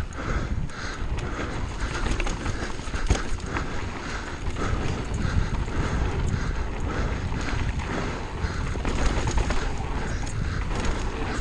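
Mountain bike descending a dirt downhill course: a steady rumble of tyres and rattle with occasional knocks, and a regular rhythmic pulse about three times a second.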